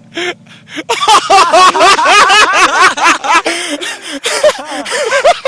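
Young men laughing loudly and excitedly in rapid bursts. A low steady engine hum fades out in the first second.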